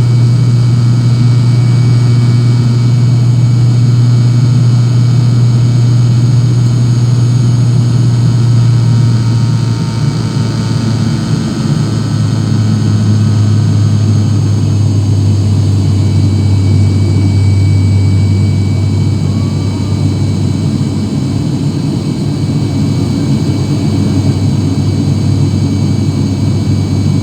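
Cabin noise of an ATR 72 turboprop airliner in flight: a loud, steady low drone from its propellers and engines, whose pitch steps down about ten seconds in.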